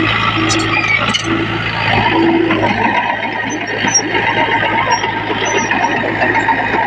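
Diesel engines of earthmoving machinery (bulldozers and dump trucks) running steadily under work: a constant low engine hum under a dense mechanical din.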